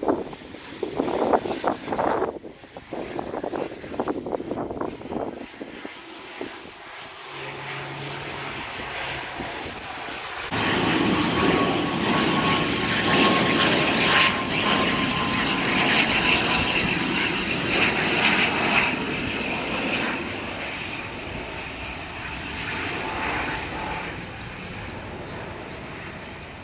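ATR 72-600 turboprop airliners with their Pratt & Whitney PW127 engines and propellers running. The first is fainter and mixed with gusts of wind on the microphone. About ten seconds in, a second ATR 72-600 comes in much louder, with a steady propeller tone that slowly falls in pitch.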